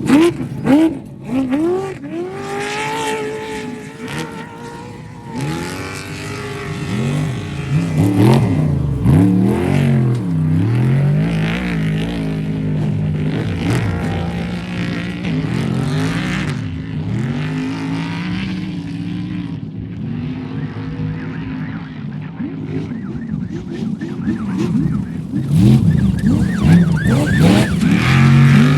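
Off-road race vehicles' engines revving up and down as they race, several engine pitches rising and falling over one another.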